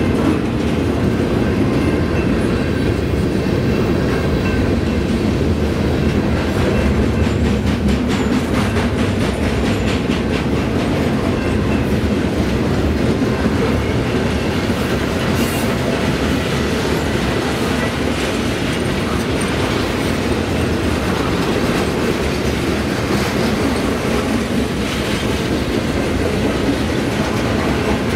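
BNSF freight train of wind turbine component cars rolling past, making a steady, loud rumble of wheels on rail.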